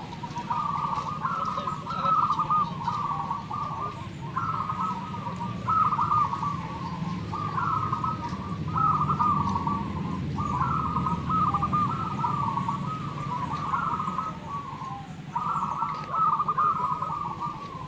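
Many zebra doves (perkutut) cooing together, their overlapping trilled coos following one another almost without a break.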